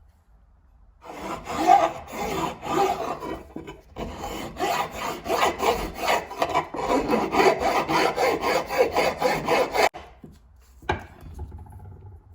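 Hand sanding: abrasive paper rubbed back and forth over brass in quick, even strokes, with a short break partway through. The strokes stop abruptly, and a single click follows about a second later.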